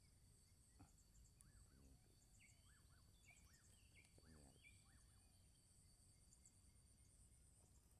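Faint outdoor ambience: insects keep up a steady high drone while small birds chirp on and off, mostly in the middle of the stretch.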